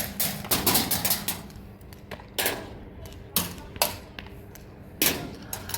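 Airsoft guns firing: a rapid burst of sharp clacking shots in the first second and a half, then single shots and BB hits at intervals.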